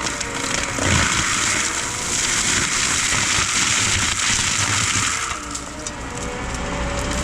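Forestry mulcher running under load, its mulching head grinding brush and wood into a continuous noise.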